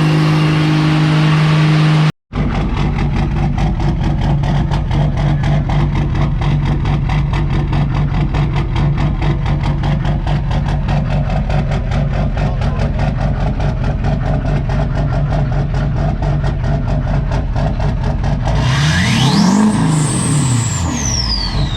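A steady drone cuts off about two seconds in. Then a diesel truck engine idles with a fast, even clatter. Near the end it is revved once, and a high turbo whistle rises and falls with it.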